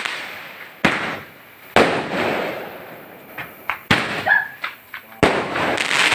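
Fireworks going off: four loud bangs a second or two apart, each trailing off over about a second, with smaller pops in between.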